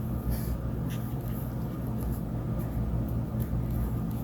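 Steady low hum in the room, with a few faint soft ticks and rustles from handling the craft materials.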